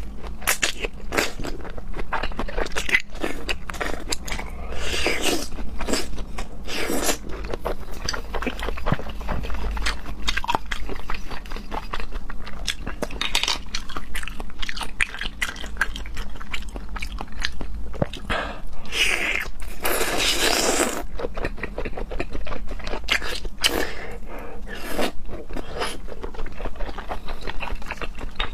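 Close-miked eating of raw salmon sashimi: steady wet chewing with many small mouth clicks and smacks, broken by a few longer sucking or slurping noises.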